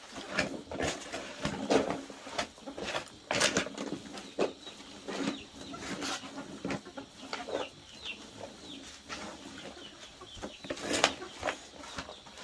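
Chickens clucking among scattered sharp knocks and clicks, with a few brief high chirps in the middle.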